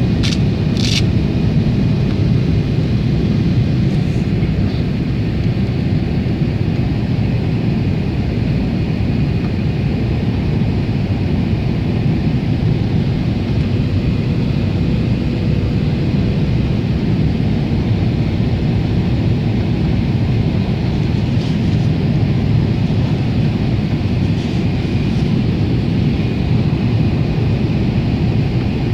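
Steady roar of a Boeing 777's engines and airflow, heard from inside the passenger cabin, with a few faint clicks about a second in.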